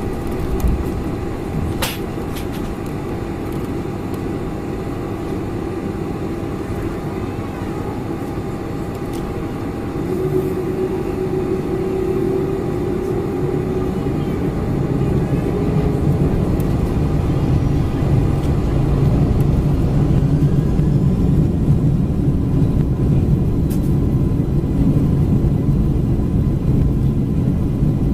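Inside the cabin of a Boeing 747-400, the engines and airflow make a steady rumble with a faint steady hum above it. The rumble grows louder about halfway through and stays there, with a single click near the start.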